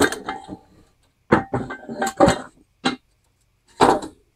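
Metal clanking and clinking in several separate clatters, with a light ring: the lawnmower deck and its mounted engine being shifted and propped up.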